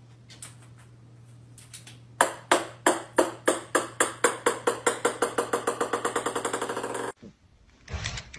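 A small ball bouncing on a wooden floor: a run of sharp, ringing taps that come faster and faster and grow fainter as it settles, cut off suddenly near the end. A low steady hum runs underneath.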